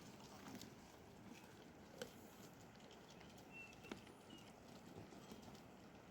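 Near silence: faint outdoor ambience with a couple of soft knocks and a few brief faint high chirps.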